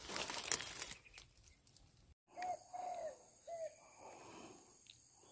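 Footsteps rustling through undergrowth, then after an abrupt cut a bird calls in four short notes that rise and fall in pitch.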